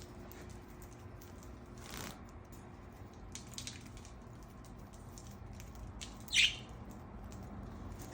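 A budgerigar gives one short, sharp chirp about six seconds in, the loudest sound here, with faint rustling before it.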